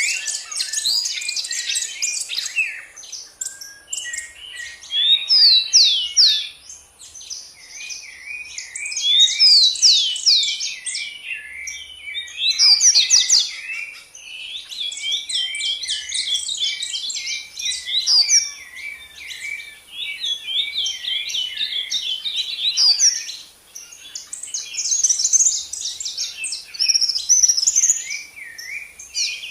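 Many small birds chirping and singing together in a dense chorus of quick, overlapping chirps and trills. The chorus swells and fades every few seconds.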